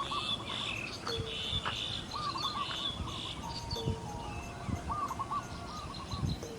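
Several birds calling at once: clusters of high chirps together with repeated groups of lower looping notes, on a moderately loud background of birdsong.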